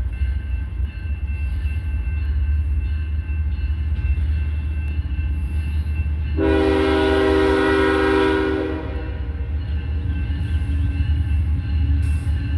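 Diesel freight train rumbling steadily, with one locomotive air horn blast of about two and a half seconds in the middle.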